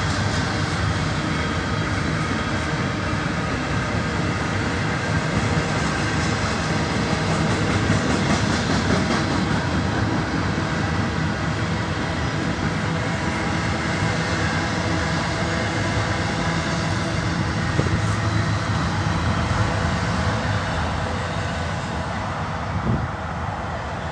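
Container-laden intermodal well cars of a freight train rolling past: a steady rumble and clatter of steel wheels on rail, easing slightly near the end.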